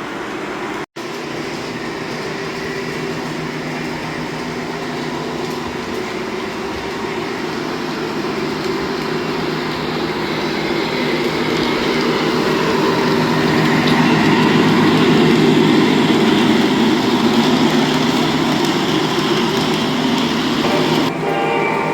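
Model train engine running along layout track, growing louder as it passes close, about the middle. Just before the end its horn starts sounding.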